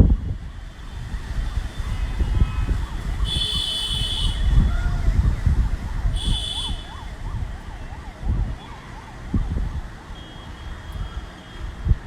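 Wind buffeting the microphone, with two short high-pitched beeps and a faint warbling tone that rises and falls quickly, like a distant alarm.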